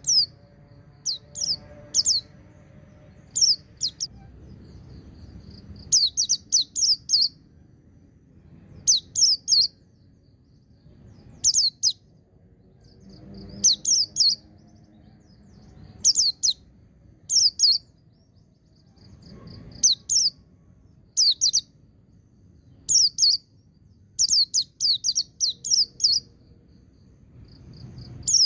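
A white-eye (pleci) singing in short bursts of high, quick down-sweeping notes, two to five notes per burst, with pauses of a second or two between bursts.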